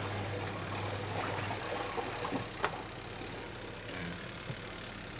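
Washing machine motor humming steadily while it is still running, cutting off about a second and a half in as the power plug is pulled, followed by a few sharp clicks and knocks.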